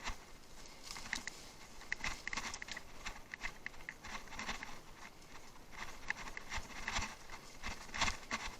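Bicycle clattering and ticking over rough off-road ground: a string of irregular small clicks and rattles, some with a short metallic ring.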